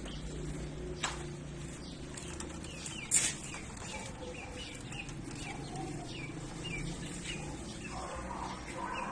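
Birds chirping over and over in short, falling notes over a low steady hum, with a brief sharp noise about three seconds in.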